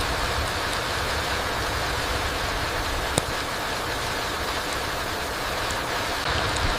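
Steady rain falling through trees onto the forest floor: an even hiss with a few separate drop ticks, and one sharper drip about three seconds in.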